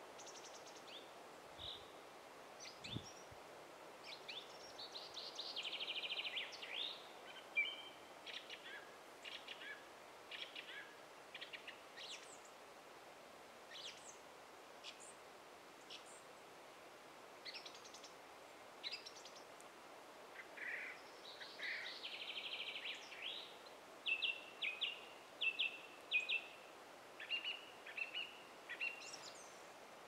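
Small birds singing and calling: short chirps and twittering, trilling phrases coming and going, over a faint steady hiss. Two brief low thumps near the start.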